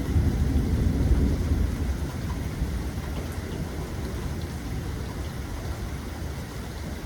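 Steady rain falling, with scattered drop ticks, and a low rumble of thunder that swells in the first two seconds and then dies down.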